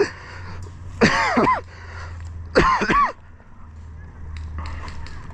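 Two short vocal sounds from a person, about a second and a half apart, over a low steady hum; quieter after about three seconds in.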